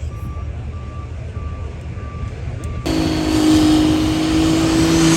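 Truck engine rumbling with a reversing alarm beeping about every half second. About three seconds in, a much louder hard-running engine with a steady drone and high hiss cuts in abruptly.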